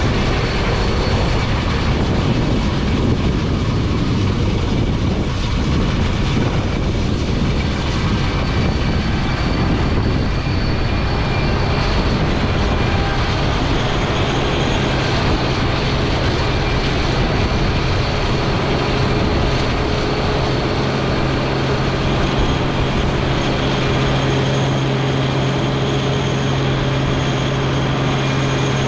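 International 1460 combine harvester running steadily under load, a dense mechanical din of engine and threshing machinery. About halfway through, a steady low hum rises out of the noise and grows stronger near the end.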